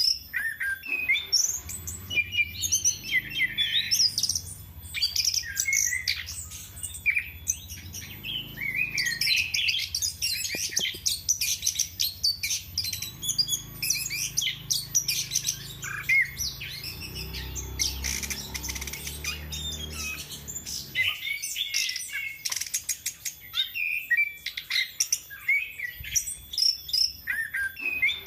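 Chestnut-capped thrush (anis kembang) in full song: a fast, varied, unbroken stream of chirps, trills and whistles.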